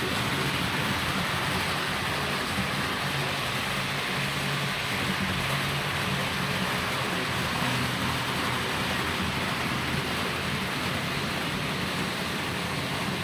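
HO-scale model train running along the track: a steady rolling rush of wheels on rail with a low electric motor hum underneath.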